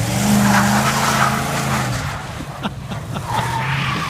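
GMC pickup truck engine revving hard while its tyres spin and throw snow, a hiss over the engine for about two seconds before the revs drop back. A few sharp clicks follow near the end.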